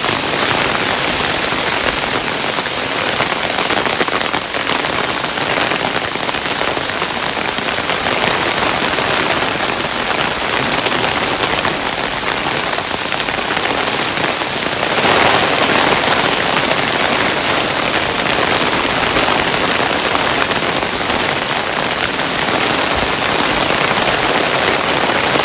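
Hailstones falling, a dense steady patter of countless small hard impacts, with a slightly louder stretch about 15 seconds in.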